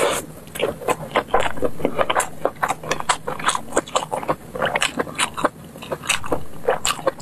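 Close-miked eating of sauce-glazed skewered food: wet chewing and lip-smacking as pieces are pulled off bamboo skewers with the lips, a quick, irregular run of sticky clicks and smacks.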